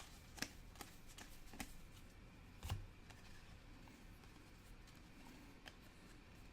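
Soccer trading cards being handled and flipped through, with a few faint clicks of card stock and a soft thump about two and a half seconds in.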